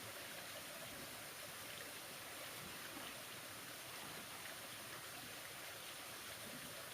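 Steady, faint rushing hiss with no distinct events.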